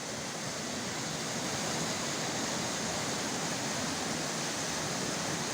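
Rushing water, a steady even roar.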